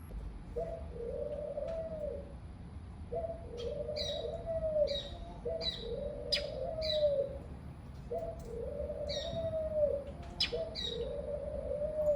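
A dove cooing, a low phrase of about a second and a half repeated five times, with a series of short, high chirps from a smaller bird scattered over it.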